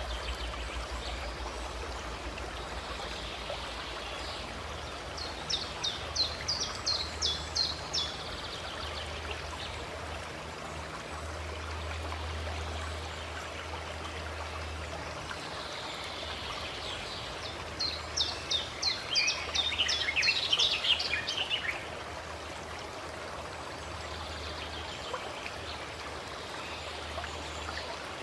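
Running water of a spring flowing steadily, with a bird singing twice, each a burst of a few seconds of rapid high notes.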